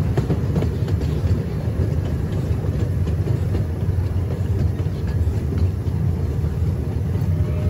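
Small-gauge riding train rolling along the track: a steady low rumble of wheels on rails, with faint clicks.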